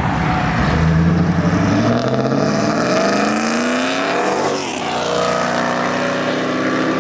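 A car engine accelerating hard, its note climbing steadily for about four seconds. About four and a half seconds in it dips briefly, then holds a steadier, higher note.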